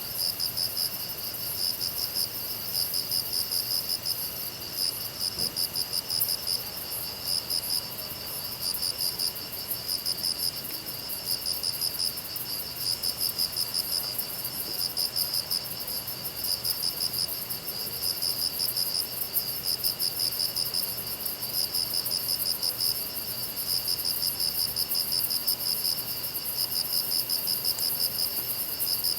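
Grass insects, crickets among them, chirping together in the night-style chorus: a high chirping that comes in pulsing runs of about a second, over a steady thinner trill.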